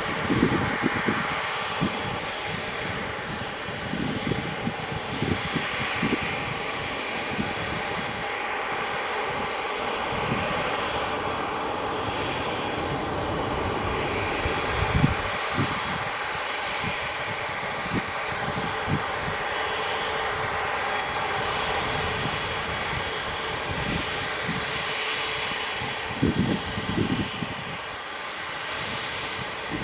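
Airbus A350-900's Rolls-Royce Trent XWB jet engines running with a steady whine over a broad rush, with irregular low gusts of wind rumbling on the microphone.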